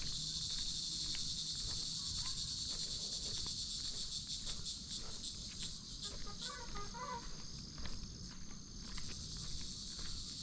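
A chorus of insects buzzing steadily at a high pitch, with a pulsing beat in the middle of the stretch. Footsteps on a path can be heard faintly underneath.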